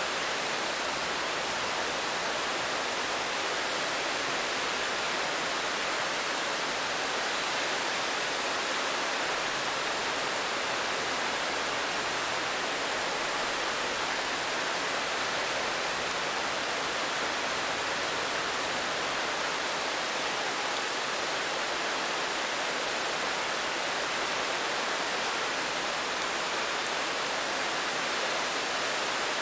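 Steady rain: an even, unbroken hiss with no distinct drops or thunder.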